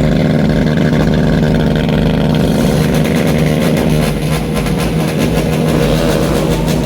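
Motorcycle engine held at high revs, a loud, steady note that barely changes pitch.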